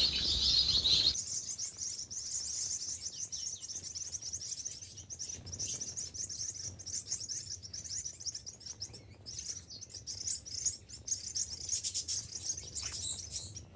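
A flock of small aviary finches chirping rapidly and continuously, with a few louder calls near the end.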